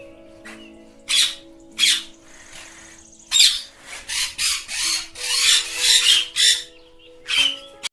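A bird giving a string of short, harsh squawks, about ten in all, bunched most densely in the second half, over faint held musical notes.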